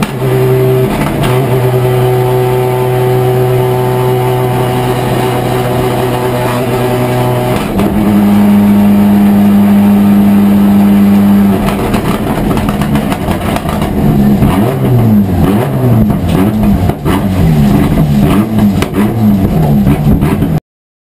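Race car engine heard from inside the cockpit, running hard at high revs: the pitch holds steady, steps up sharply about eight seconds in, then rises and falls again and again over the last several seconds as the driver works the gears. The sound cuts off suddenly just before the end.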